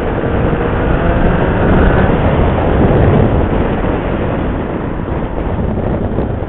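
Motorcycle running at road speed, its engine hum under a dense rush of wind and road noise on the rider's microphone, swelling slightly a couple of seconds in.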